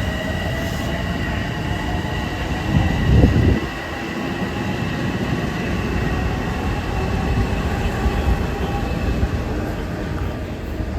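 Long Island Rail Road electric commuter train running through, a continuous rumble with a steady high-pitched whine over it. About three seconds in there is a brief louder surge.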